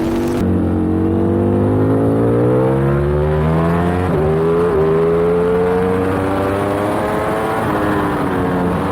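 Racing superbike engine heard onboard under hard acceleration. Its note climbs steadily for about four seconds, breaks briefly, then holds high and level before easing slightly near the end.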